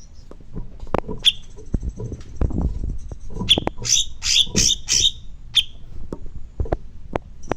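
Songbird calling: sharp, quick chirps, several in a rapid cluster near the middle, over a thin high buzzing trill, with a few soft low knocks underneath.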